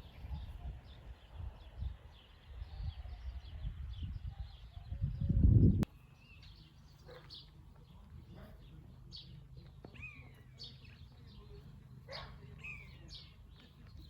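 Small birds chirping and calling in short notes, spread through the second half. Over the first half there is an irregular low rumble on the microphone, loudest just before it cuts off abruptly about six seconds in.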